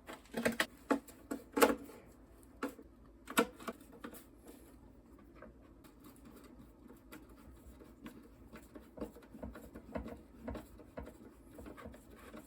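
Hand tools working bolts on a Tecumseh small engine: a handful of sharp clicks and knocks in the first few seconds, then faint rapid ticking near the end.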